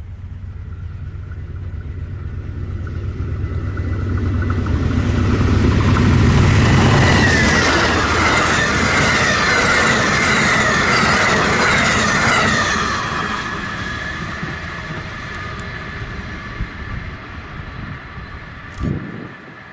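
A train passing close by: a rumble builds for several seconds, then the wheels squeal loudly on the rails for about six seconds before the sound fades away.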